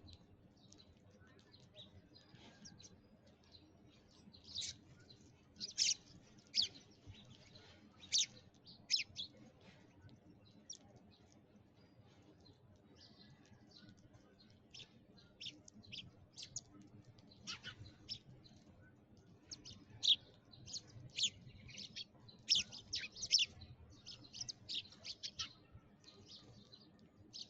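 Sparrows chirping: short, high chirps in scattered runs, busiest in the second half.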